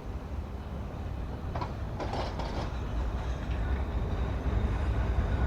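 Heavy demolition excavator pulling at a building: a deep rumble that grows steadily louder, with brief metallic screeching and clattering about two seconds in as the structure is dragged apart.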